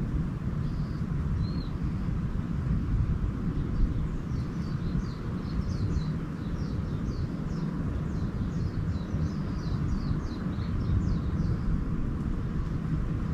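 A small bird's rapid twittering song, a quick run of short high falling chirps for several seconds in the middle, over a steady low rumble of outdoor background noise.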